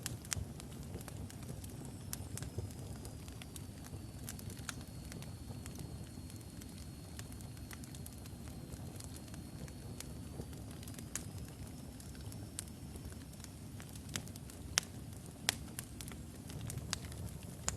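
Wood fire burning logs in a fireplace: a steady low rumble of flames with scattered crackles and pops, two sharper pops near the end. A faint high thin whistle runs through most of the middle.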